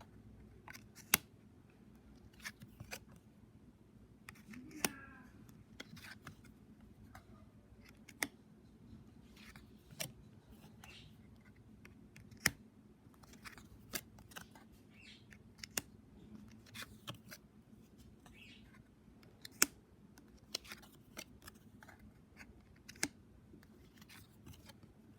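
Lenormand cards being handled and laid down one after another: faint, irregular sharp clicks and light taps every second or two, with soft rustling of card stock in between.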